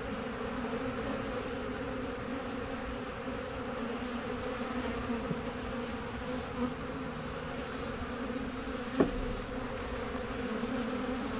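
Many honey bees flying, a steady dense buzzing hum, around a small two-frame colony that is being robbed out by other bees. A single sharp click comes about nine seconds in.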